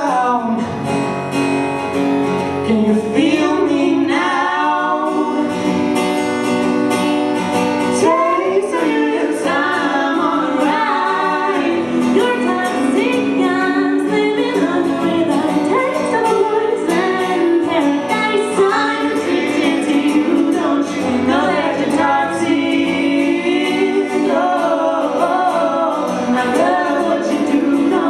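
Live singing of several voices, female among them, in sliding sung runs and harmonies over acoustic guitar, part of a pop song performance.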